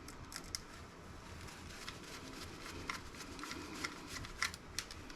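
Scattered light clicks and taps of a laptop's circuit board and small parts being handled and turned over, a few sharper clicks near the end.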